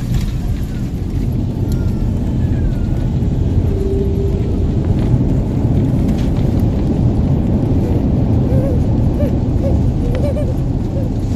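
Heavy, steady low rumble inside the cabin of an Airbus A350-900 during landing, from its engines and airframe.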